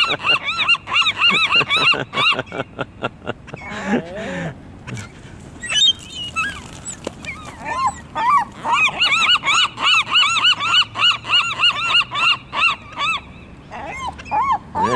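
A flock of seagulls squabbling over thrown food, calling in rapid runs of short, high, rising-and-falling notes. The calls thin out for a few seconds about a quarter of the way in, then start again.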